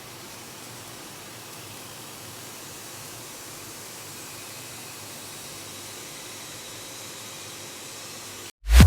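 Steady, even hiss that cuts off suddenly near the end, followed at once by a loud, deep hit that rings on.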